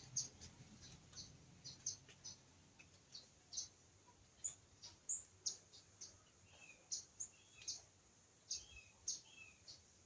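Small birds chirping: many short, high chirps, a few a second, mixed with a few lower, downward-falling notes.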